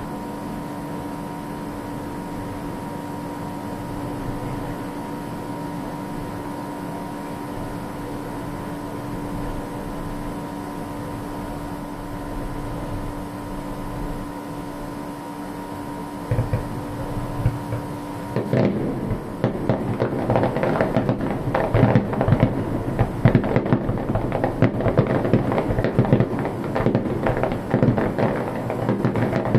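Fireworks: a steady background hum with two steady tones for the first half, then a few low booms past the middle, and about two-thirds in a dense, rapid crackling and popping of bursting shells that keeps on.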